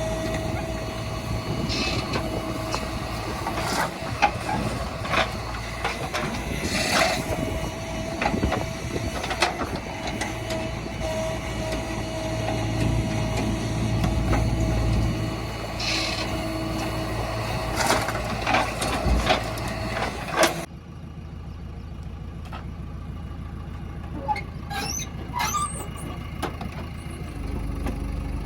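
JCB 3DX backhoe loader's diesel engine running under work, with a steady whine over it and scattered knocks and clanks. About twenty seconds in the sound cuts abruptly to a quieter, duller engine running.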